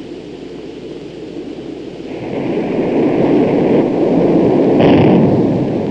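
Aircraft engine noise: a loud, rushing roar that swells from about two seconds in and is loudest near the end, with a short sharper burst.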